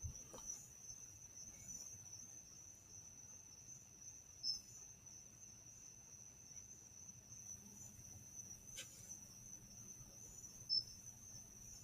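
Crickets chirping in a faint, steady high trill, with two short clicks, one about four and a half seconds in and one near the end.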